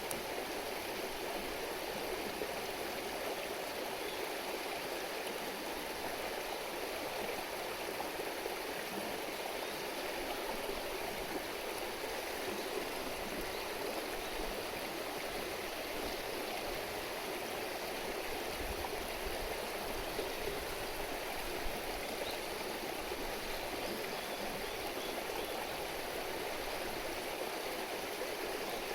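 A river stream babbling steadily, an even rush of water.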